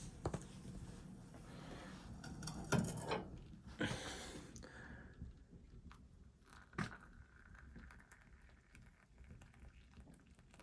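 A few separate knocks and clatters among soft rustling: four main ones, the loudest near the third and fourth seconds, with quieter rustling after that.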